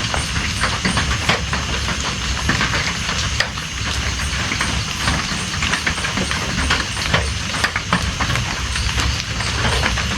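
Steady rain falling, with many separate drops ticking sharply and irregularly on a near surface.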